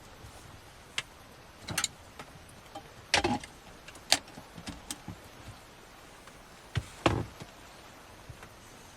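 A scattered series of short knocks, clicks and clatters, as of objects being handled. The loudest come about three and four seconds in, and another cluster about seven seconds in.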